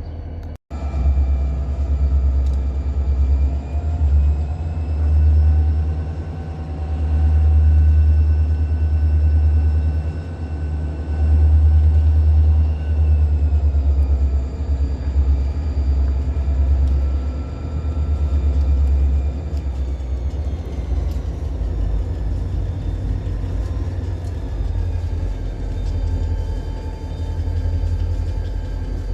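Diesel locomotive of a New England Central Railroad ballast train working as the train departs, a deep rumble with an engine whine above it. The whine rises in pitch over the first few seconds, then drops twice, about halfway through and again a few seconds later. The sound cuts out briefly just after the start.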